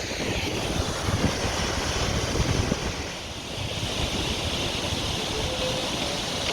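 Ocean surf washing on the shore, with wind buffeting the microphone.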